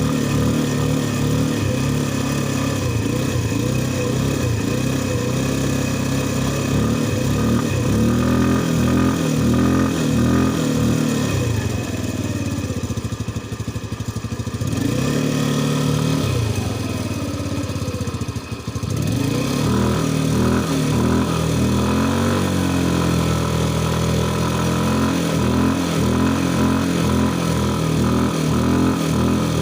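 Mustang's engine running and being revved, its revs rising and falling, with two short drops in loudness near the middle.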